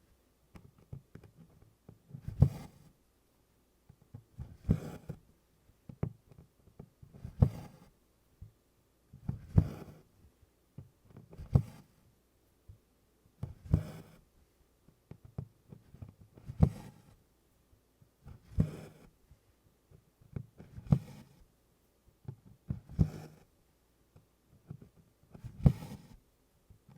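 Needle and DMC cotton floss worked through 24-count Congress cloth in tent stitch: each stitch gives a small click of the needle piercing the stiff canvas and a short swish of thread drawn through. The stitches come at an even pace, about one every two seconds.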